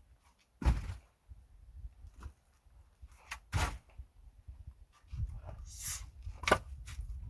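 Three sharp knocks about three seconds apart, with scattered clicks and a low rustle of handling between the last two, like something hard being set down or shifted.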